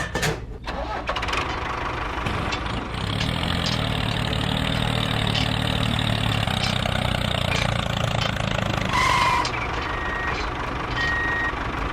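A vehicle engine running steadily, its hum strongest through the middle, with short electronic beeps near the end.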